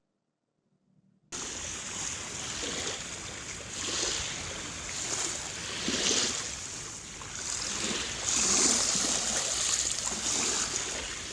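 After about a second of silence, ocean water rushing and washing, swelling and fading every second or two.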